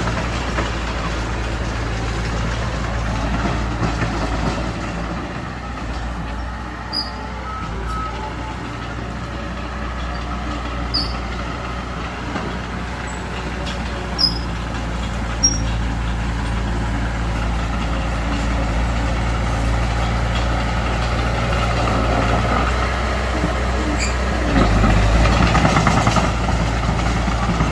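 Heavy diesel engine of earthmoving machinery running steadily, with a few short sharp clicks. It gets louder near the end.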